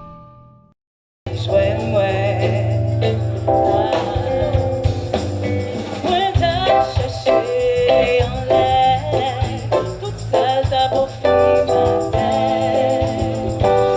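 A held musical tone fades out into a brief silence, then a band with a lead singer starts playing about a second in, with a steady bass line under wavering vocal melody.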